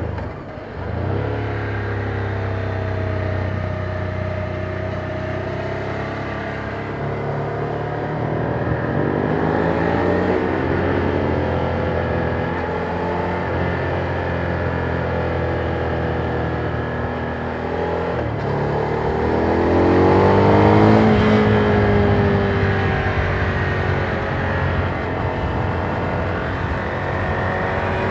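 Ducati Monster 797's air-cooled V-twin engine on its stock exhaust, riding along: the sound dips briefly about half a second in, then the engine pulls up in pitch twice, around a third of the way in and again past the middle, the second pull being the loudest, easing off between them.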